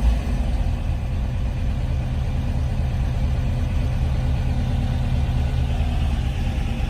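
Porsche 914's air-cooled flat-four engine idling steadily at about 1000 rpm, warm and on its aftermarket engine management.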